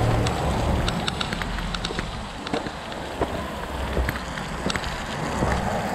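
Steady rush of falling water from a waterfall, with scattered drips and sharp ticks throughout and a low rumble of wind on the microphone.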